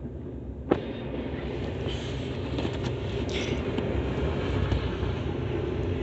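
CSX freight train rolling past with a steady low rumble and the clatter of wheels over the rails, growing a little louder. A single sharp knock comes about a second in.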